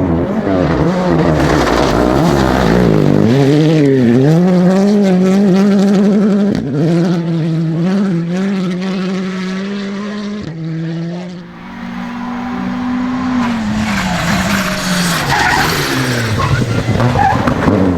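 Rally car engine driven hard, its note climbing and dropping again and again with abrupt breaks at the gear changes. The sound dips about eleven seconds in, then builds again toward the end.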